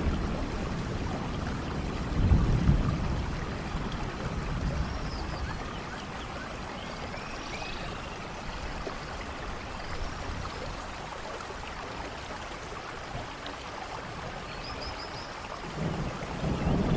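Steady rainfall in a rainforest thunderstorm. Low thunder rumbles swell about two seconds in and again near the end, and a few faint high chirping calls sound over the rain.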